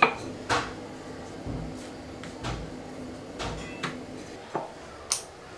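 Irregular light knocks and clacks, about eight of them, of kitchen utensils and dishes being handled on a counter.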